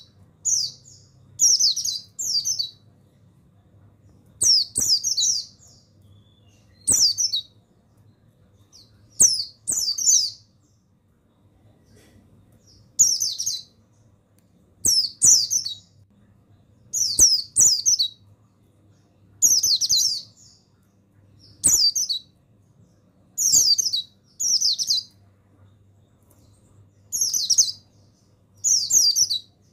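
White-eye (pleci buxtoni) giving short, high twittering chirp phrases, each about half a second long, repeated every two seconds or so, sometimes two in quick succession.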